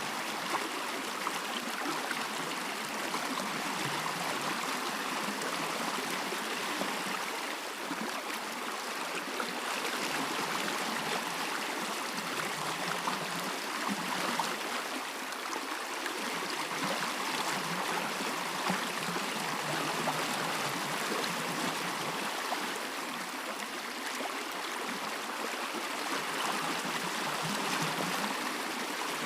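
A stream flowing steadily, a continuous rushing and gurgling of water.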